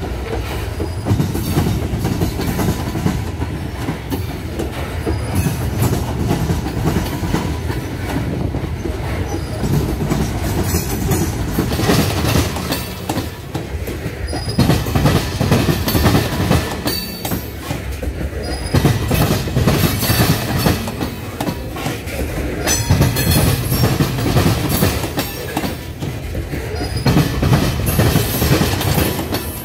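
Loaded aluminum coal cars rolling slowly past, their steel wheels rumbling and clacking over the rail joints, with short wheel squeals now and then.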